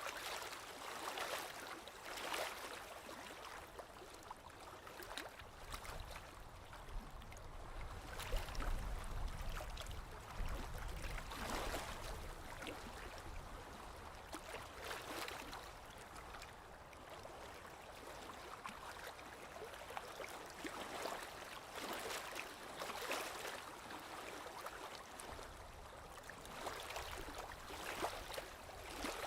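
Small lake waves lapping at the shoreline: soft, irregular splashes and gurgles coming every second or two.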